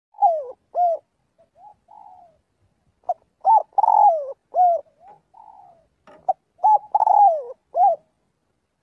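Spotted dove cooing: loud phrases of several falling coos repeat about every three seconds, with fainter coos in the gaps between them.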